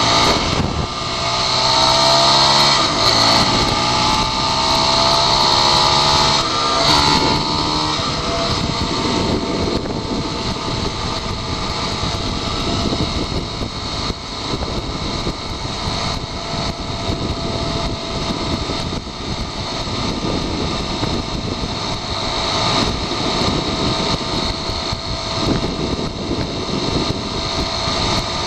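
Dirt bike engine accelerating through the gears, its pitch rising, dropping at a shift about three seconds in, and rising again. After about eight seconds it settles into a steady cruise, mostly heard as wind rush on the goggle-mounted microphone.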